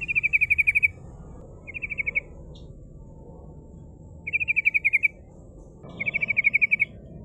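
Yellow-vented bulbul (trucukan) singing its rolling song: four short, rapid trills of evenly repeated high notes, each about half a second to a second long, with pauses of a second or more between them. A steady low rumble runs underneath.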